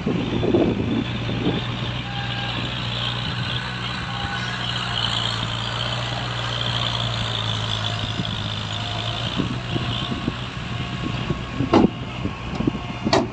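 Heavy diesel earthmoving machinery running steadily, with a backup alarm beeping. Two sharp knocks come near the end.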